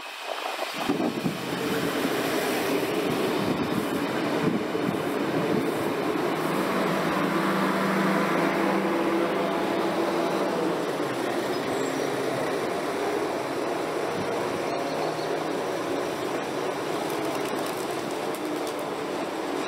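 Regional diesel multiple unit train running as it pulls away from the platform and draws off along the track, its engine drone swelling a few seconds in and then easing slightly. The sound comes in about a second in.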